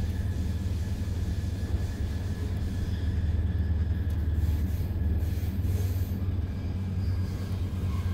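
Steady low rumble of an SBB Re 450 DPZ double-deck commuter train running along the line, heard from inside the passenger coach, with a faint steady whine above it.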